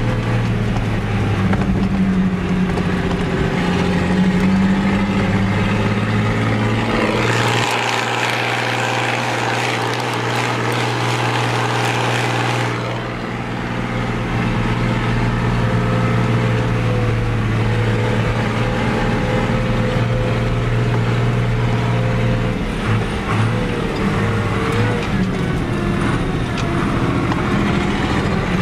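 Fiat 110-90 tractor's six-cylinder diesel engine running hard under full throttle while driving, with a steady low drone. A loud hissing rush lies over it for about five seconds near the middle.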